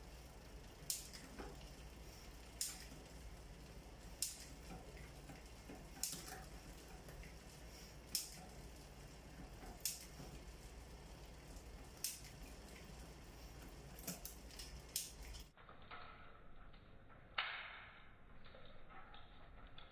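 Mountain bike drivetrain clicking as the chain is shifted from cog to cog, a sharp metallic click with a short ring about every two seconds. After a break there is one more click near the end.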